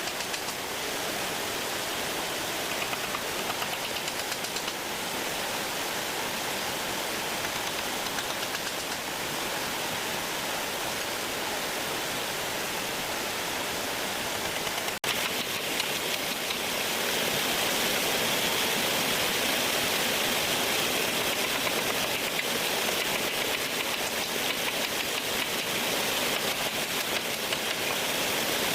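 Steady rushing noise like running water, with a brief break about halfway through, after which it is slightly louder and hissier.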